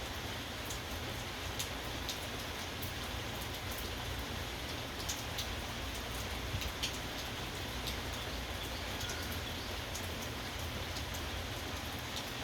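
Steady rain falling, with individual drops ticking sharply and irregularly on a nearby surface.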